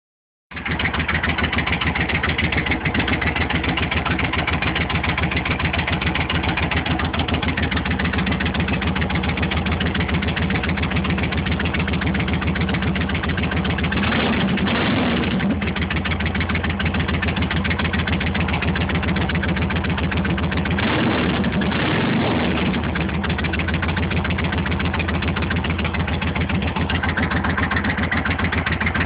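Suzuki Intruder 1400's V-twin engine idling loud and lumpy through Cobra drag pipes with the baffles removed. It is blipped twice, briefly, about halfway and again about two-thirds of the way through.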